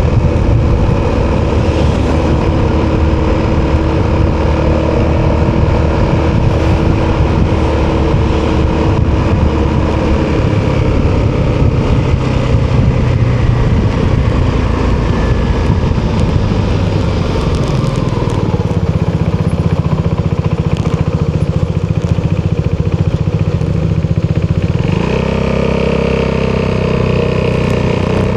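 Italjet Dragster 200's single-cylinder four-stroke engine running through an Akrapovic exhaust while riding. The engine note shifts in pitch along the way and rises suddenly near the end as it accelerates.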